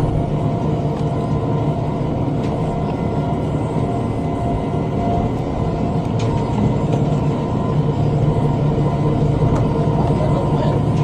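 Tractor engine running steadily under load, driving a rotary cutter (bush hog) through brush, with a few faint clicks over the steady drone.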